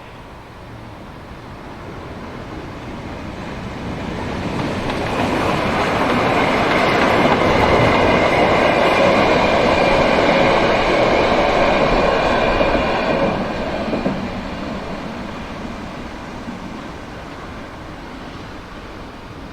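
A train passing: its running noise builds over a few seconds, stays loud for about seven seconds, then fades away.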